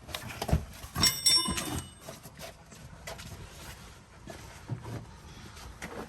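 Metal tools and hardware handled and knocked together, a run of clicks and knocks with a bright metallic ringing clink about one to two seconds in.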